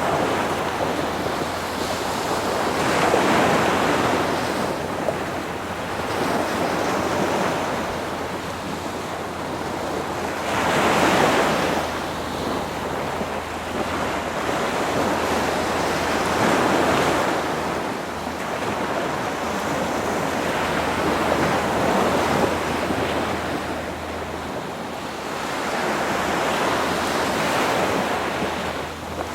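Water rushing and splashing along a sailboat's hull in surges every five or six seconds, with wind buffeting the microphone. A low, steady hum from the boat's motor runs underneath.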